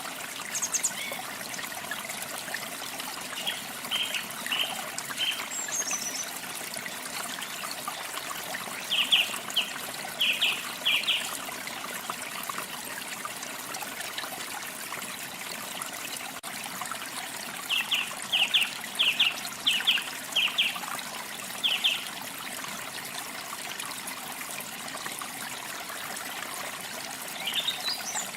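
Water trickling steadily, with small birds chirping over it in short runs of quick repeated notes, three clusters spread through, and a few higher chirps near the start and end.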